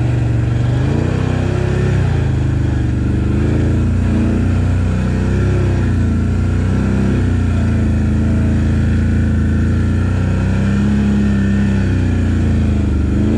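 ATV engine running in low-range four-wheel drive, its revs rising and falling every second or two as it pulls along the trail.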